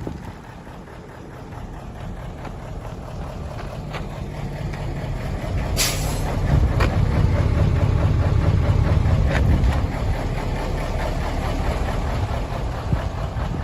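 Mitsubishi Fuso Great dump truck's 8DC10 V8 diesel engine running with a deep rumble, growing louder over several seconds, then easing off slightly near the end. A short hiss cuts in about six seconds in.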